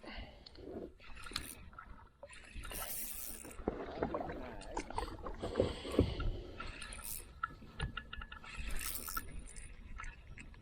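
Knocks, scrapes and splashes from a kayak and fishing gear being handled on the water, irregular and uneven.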